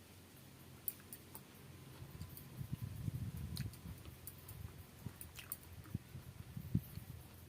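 A person chewing a mouthful of rice and curry, with soft wet mouth sounds and a few small clicks, starting about two seconds in.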